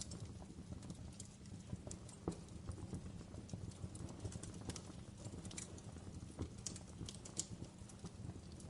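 Wood campfire crackling: irregular sharp pops and snaps, some louder than others, over a steady low rumble of burning.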